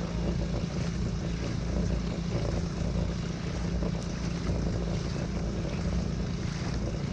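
Motorized kayak's drive motor running steadily with a constant hum, with wind buffeting the microphone.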